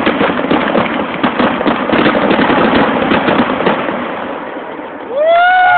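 Fireworks crackling: a dense, rapid run of small pops and bangs that fades away over the last couple of seconds. Near the end a loud high-pitched tone sets in, rising then falling in pitch.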